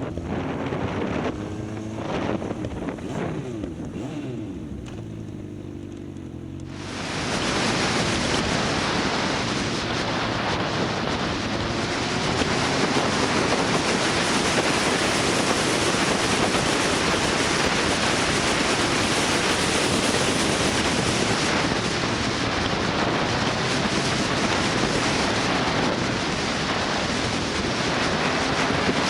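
Motorcycle engine running, its pitch sliding down and up. About seven seconds in, a loud steady wind rush on the microphone at riding speed takes over and drowns the engine.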